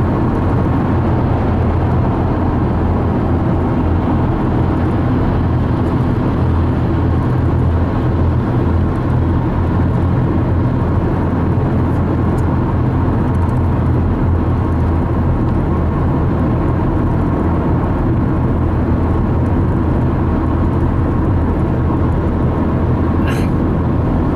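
Steady low road and engine noise inside a car travelling at highway speed, without change in level.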